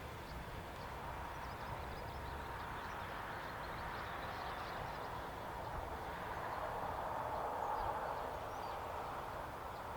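Faint, steady rushing of a distant train, swelling about seven seconds in, with faint bird chirps.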